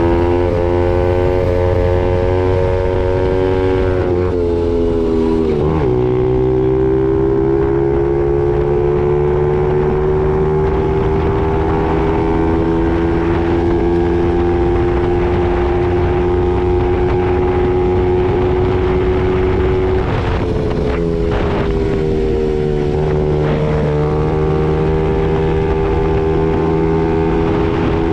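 Honda CRF50 mini dirt bike engine running under way. The pitch drops sharply about five seconds in, as on an upshift, then climbs slowly for a long stretch, and falls back twice more near the twenty-second mark as the throttle is eased or a gear is changed.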